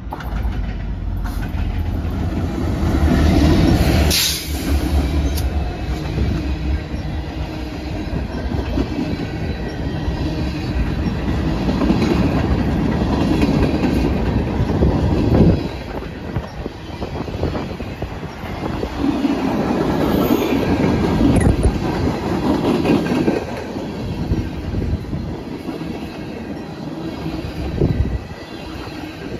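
Freight train rolling past: the locomotive's heavy rumble at first, then a long string of freight cars clattering along the rails, with wheels squealing at times and a brief sharp noise about four seconds in.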